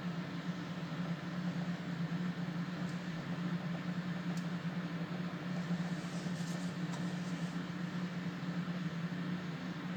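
Microwave oven running: a steady low hum with fan noise, and a couple of faint ticks.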